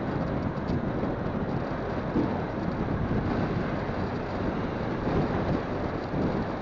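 Wind buffeting a phone's microphone on a moving motorcycle: a steady low rumble mixed with the motorcycle's running noise.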